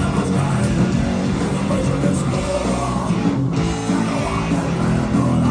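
Heavy metal band playing live: distorted electric guitars and drums with singing.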